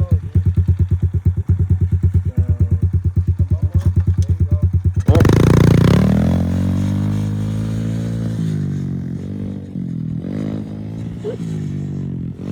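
Small dirt bike engine idling with a lumpy, even beat. About five seconds in it revs up suddenly as the bike pulls away, and the engine note then slowly sinks in pitch and grows quieter as it rides off.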